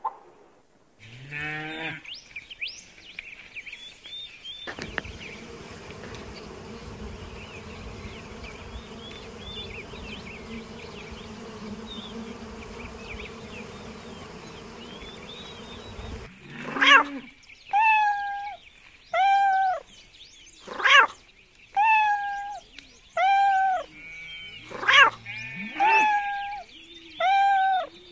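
Birds chirping and chattering, then a steady buzz of honeybees swarming at a hive entrance that cuts off suddenly. After that a kitten meows about nine times, roughly a second apart.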